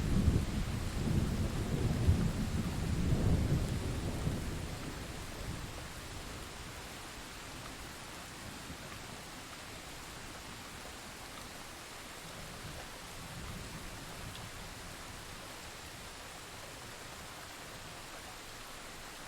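Thunder rumbling over steady rain. The rumble dies away in the first five seconds or so, leaving an even hiss of rainfall, with a faint low roll of distant thunder about halfway through.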